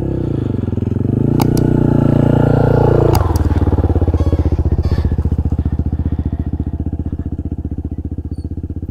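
Single-cylinder dual-sport motorcycle engine under load, its revs rising over the first three seconds, then dropping suddenly and settling to a slow, even beat at low revs.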